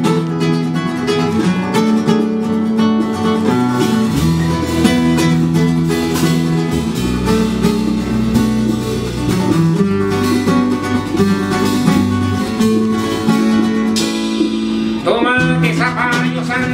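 Live band playing an instrumental intro led by strummed acoustic guitar, with a low bass line coming in about four seconds in. A singing voice enters near the end.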